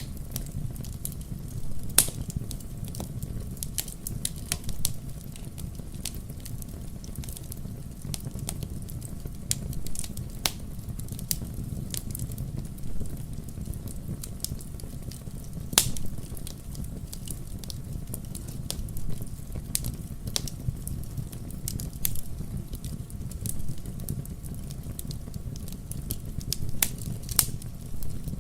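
Wood logs burning in a fireplace: a steady low rumble of the fire with irregular sharp crackles and pops, a few louder snaps standing out, one about two seconds in and one near the middle.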